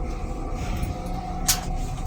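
Steady low rumble and hum of a Metro-North M3 electric railcar, heard inside its small restroom, with one sharp clack about one and a half seconds in.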